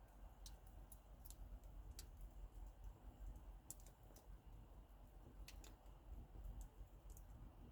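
Faint campfire crackling: sparse, irregular sharp snaps and pops, about a dozen, over a faint low rumble.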